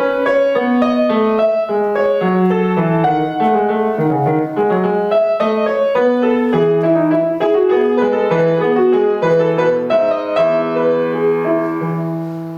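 Acoustic piano playing a classical piece with moving lines in both hands, ending on a held final chord that fades away near the end.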